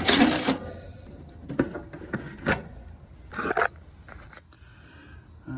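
Handling noise: a loud rustling scrape at the start, then a few scattered knocks and clicks, over steady cricket chirping.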